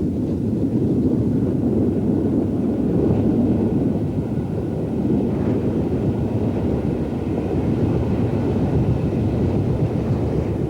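Steam-hauled train running by, a steady low rumble with no distinct exhaust beats, roughened by wind on the microphone.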